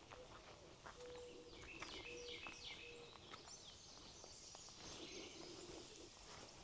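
Faint birdsong: a run of quick down-slurred chirps in the middle, over a near-silent outdoor background.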